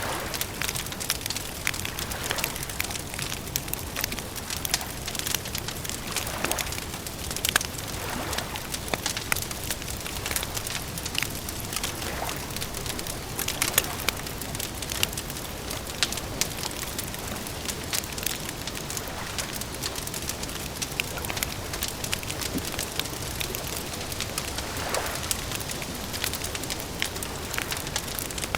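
Wood campfire crackling steadily, with frequent small snaps and a few louder pops over a soft hiss.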